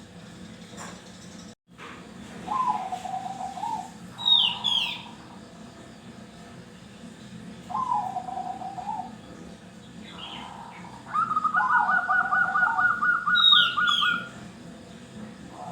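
Zebra doves cooing: three short rippling coo phrases a few seconds apart, the last one overlapping a rapid higher trill near the end. Brief high chirps from another bird come twice.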